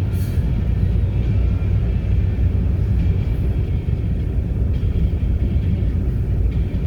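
Steady low rumble of a vehicle driving on a snowy road: engine and tyre noise.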